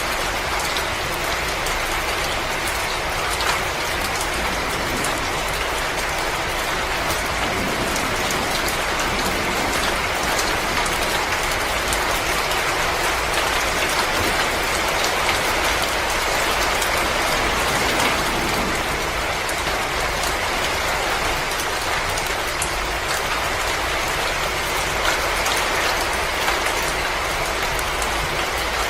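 Wood fire crackling steadily in a fireplace: a dense hiss scattered with many small snaps and pops.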